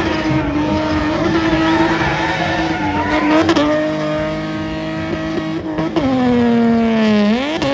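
A car engine running at high revs, its pitch held steady for several seconds, then falling and climbing sharply again near the end.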